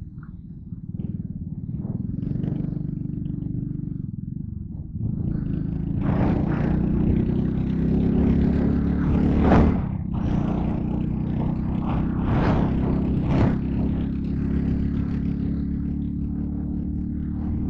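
Yamaha Crypton R motorcycle engine running on the move, getting louder about five seconds in as the bike picks up speed. Rushing noise swells and fades several times over the engine.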